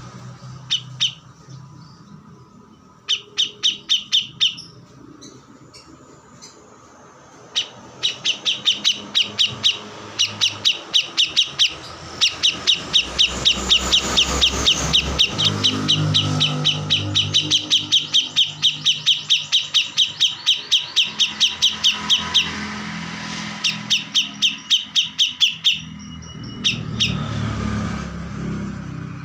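A kores songbird singing in long runs of rapid, evenly repeated sharp chirps, with short pauses between the runs. A low rumble sits underneath through the middle.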